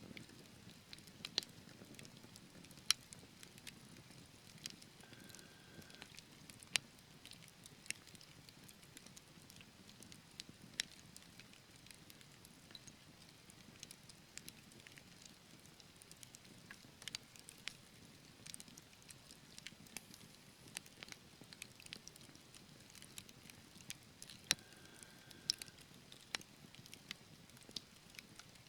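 Wood fire in a fireplace crackling: irregular sharp pops and snaps, a few much louder than the rest, over a faint low rush of burning logs.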